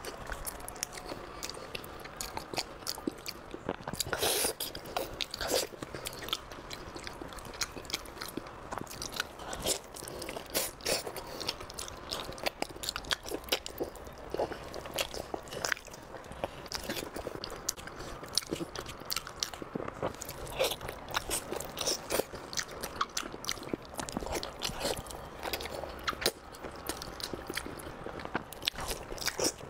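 A person biting and chewing glazed braised pork close to the microphone, with many short sharp clicks from the mouth throughout.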